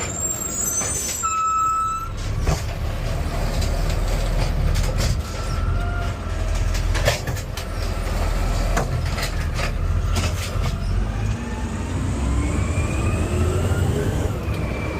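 Garbage truck's diesel engine running, heard from inside the cab, with scattered clicks and squeaks and a whine that rises over the last few seconds.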